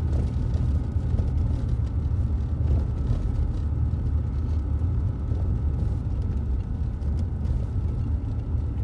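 Steady low rumble of a Jaguar car driving, engine and road noise heard from inside the cabin.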